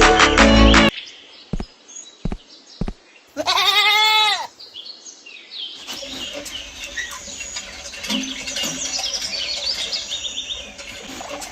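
A goat bleating once, a single call of about a second that rises and falls in pitch, after three short knocks. Music plays at the start and cuts off about a second in.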